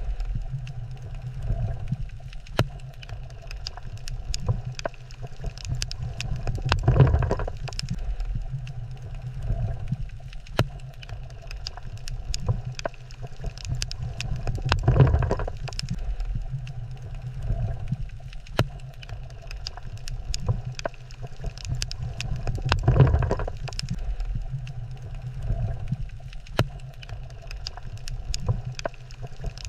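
Underwater ambience on a coral reef: a steady low rumble that swells about every eight seconds, with many sharp clicks and crackles scattered throughout.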